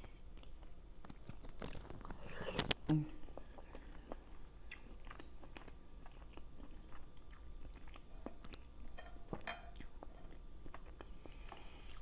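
Close-miked chewing and biting of food, with many scattered wet mouth clicks and smacks.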